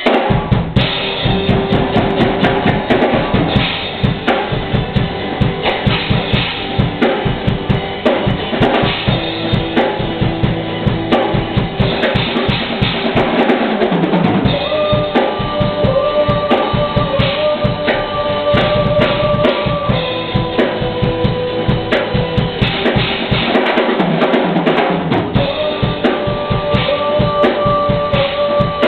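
Live band playing an instrumental passage driven by a drum kit's steady kick and snare. Held, sustained melody notes come in about halfway through.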